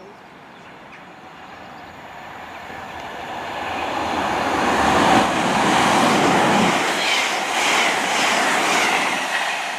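A CrossCountry Class 221 Super Voyager diesel-electric multiple unit passing through the station without stopping. It grows louder over the first five seconds and stays loud to near the end.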